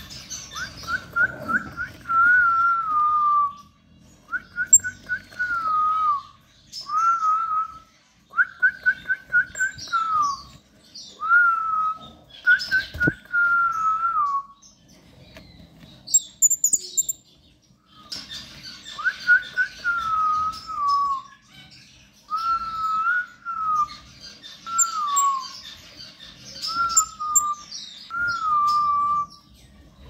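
Cage birds calling: a whistled phrase of a few quick stuttered notes ending in a falling whistle, repeated about a dozen times with short gaps and a longer pause midway, over thin high chirps. A single sharp click about 13 seconds in.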